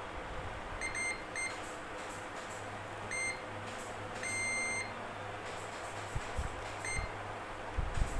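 Multimeter continuity beeper sounding in short beeps, about six in all, one held for under a second near the middle, as the probes touch connected points; each beep signals continuity across the traces being checked. A steady low hum runs underneath.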